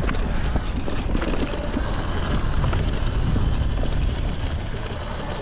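Enduro motorcycle engine running under load as the bike climbs a steep hill, with rough, gusting noise over the microphone and scattered knocks.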